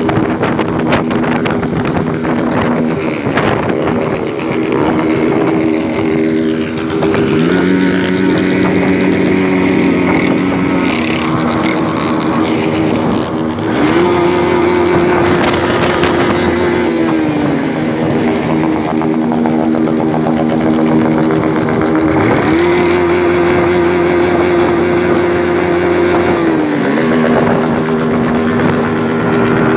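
Motorcycle engine running under way, its note climbing, holding steady and dropping back three times.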